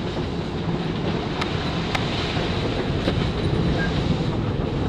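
Steady rushing of wind and rough sea aboard a sailing yacht under way, with a few sharp clicks.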